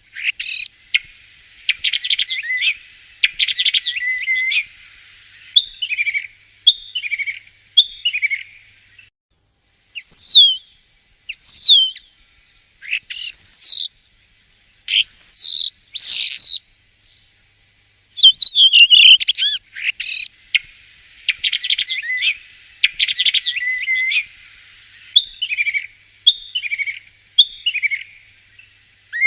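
Common starling singing: a varied song of rattles, clicks and short warbled notes, with loud falling whistles between about ten and sixteen seconds in. The same sequence of phrases starts over about eighteen seconds in.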